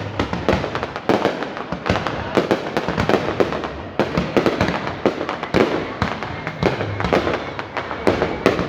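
Fireworks display: a dense, irregular string of loud bangs and crackles from shells bursting, several a second.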